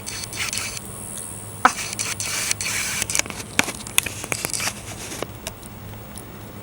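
Argentine black and white tegu eating egg off a plate: a quick run of wet clicks, smacks and scrapes from its jaws and tongue, with a brief hiss in the first second, thinning out after about five seconds.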